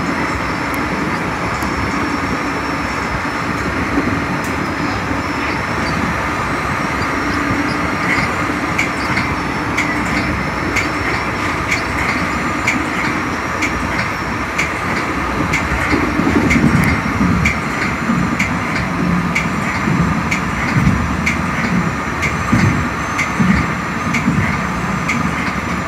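Metra commuter train running along the track, heard from inside its cab car: steady running rumble and rail noise. A regular light clicking starts about eight seconds in, and the low rumble surges unevenly in the second half.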